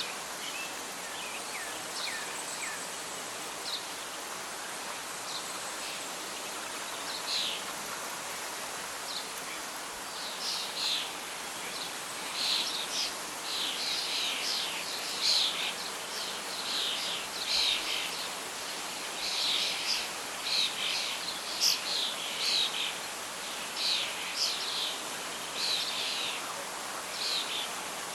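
Birds singing over a steady wash of wind and rustling leaves. The calls are few at first and grow into a busy run of short chirps from about ten seconds in.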